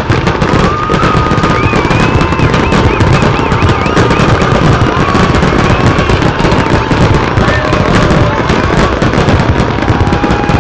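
Dense fireworks barrage: rapid, unbroken bangs and crackling, with high wavering whistles gliding up and down over it, as in a show's finale.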